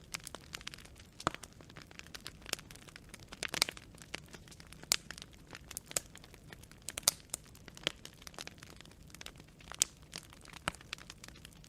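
Burning firewood crackling and popping in irregular, sharp snaps over a soft steady hiss of flames, with a few louder pops now and then.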